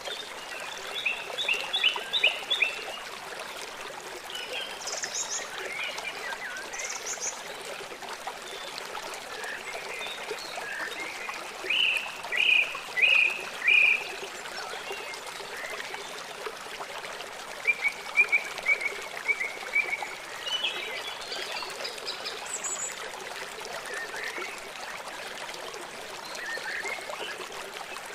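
Small songbirds chirping in short calls and trills over the steady rush of running water. A run of four loud chirps comes about twelve seconds in, and a quick trill of chirps follows a few seconds later.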